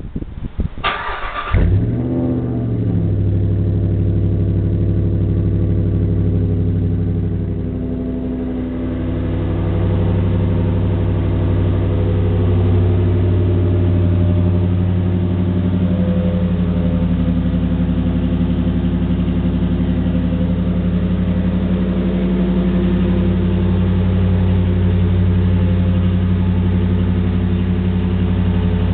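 2008 Jeep Commander's 4.7 L V8 being cranked and catching about two seconds in with a short rev flare, then settling into a steady idle through a loud exhaust. The idle dips briefly about eight seconds in, then holds steady.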